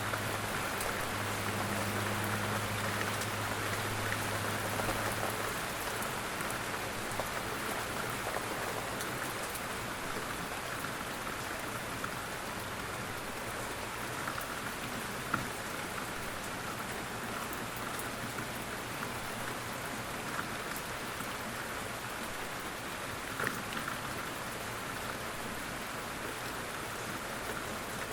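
Steady quiet rain falling, an even hiss with a few sharper single drops, the clearest about halfway through and another later on. A faint low hum sits under the rain for the first few seconds.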